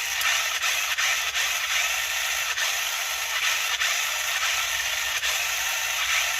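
Toy RC stunt car's small electric drive motors and gears whirring steadily as it runs its pre-programmed demo, with a few faint clicks.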